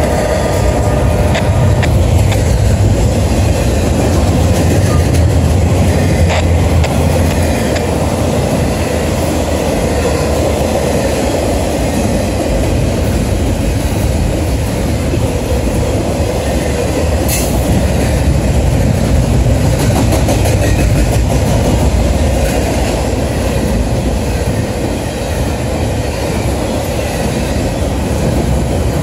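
Norfolk Southern intermodal freight train rolling past in a steady, loud rumble, with a running patter of short clicks from the wheels on the rails.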